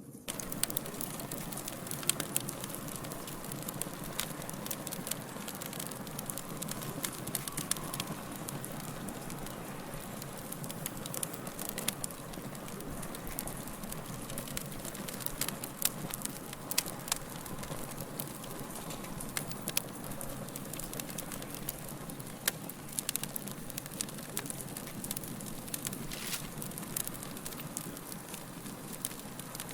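Wood fire crackling: a steady hiss with frequent sharp pops and snaps scattered irregularly throughout.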